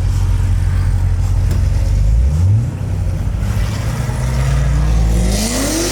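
Corvette Z06 V8 engine running at low revs, with a quick rev flare about two seconds in, then pulling hard under acceleration, its pitch climbing steadily through the second half.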